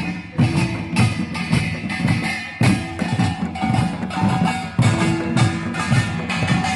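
Korean samul nori percussion ensemble playing a fast, driving rhythm: rapid clanging of small kkwaenggwari gongs over janggu and buk drum beats, with the low ring of a jing gong held now and then.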